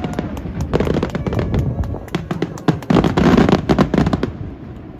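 Fireworks bursting overhead in a rapid string of bangs and crackles, which die away about four seconds in.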